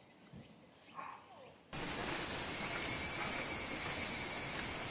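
Cicadas singing: faint at first, then a loud, steady, shrill chorus that starts suddenly just under two seconds in.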